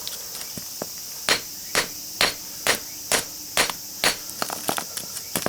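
Hammer blows on a small scrap transformer's iron core, seven even strikes about two a second followed by lighter knocks, trying to drive the copper winding out of the cut core without success. Crickets chirring steadily behind.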